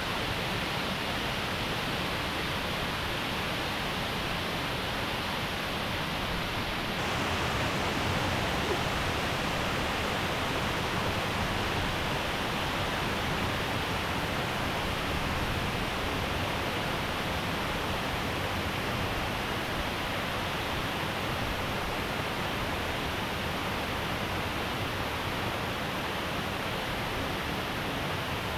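Steady rush of a waterfall, an even hiss of falling water with no breaks. About seven seconds in it turns slightly brighter and louder.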